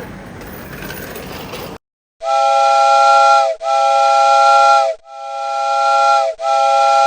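Platform background noise cuts off, and about two seconds in a loud multi-note horn chord sounds in four long blasts of roughly a second and a half each, separated by short breaks.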